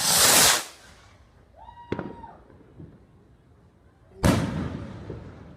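Fireworks going off: a loud rushing burst at the start, a sharp crack with a short steady tone about two seconds in, then a sudden loud bang that dies away over about a second, about four seconds in.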